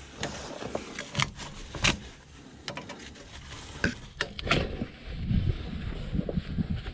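Scattered clicks, knocks and short scrapes of work on a snowblower, as wound-up rope and fabric is picked and pulled out of it.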